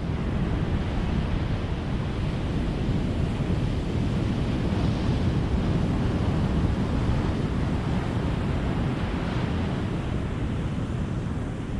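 Ocean surf breaking and washing on a beach: a steady rushing wash that swells slightly about five seconds in and again near nine seconds.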